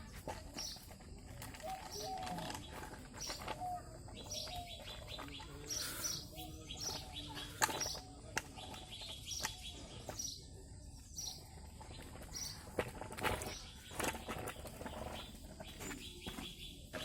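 Small birds chirping repeatedly in short high calls, with scattered sharp clicks and knocks.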